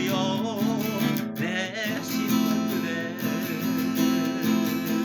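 Acoustic guitar strumming chords, with a wavering sung note held over it for about the first two seconds.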